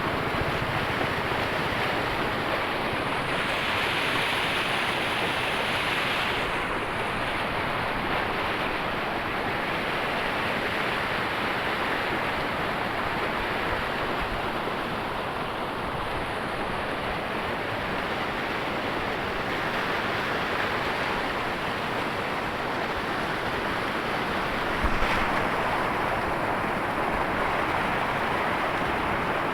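Waterfall on the Banas river: a steady, unbroken rush of falling water, with one brief knock late on.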